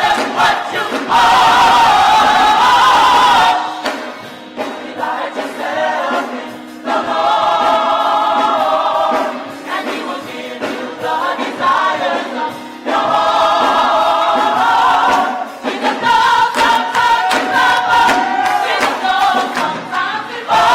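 Gospel choir singing in long held phrases, with brief breaks between them.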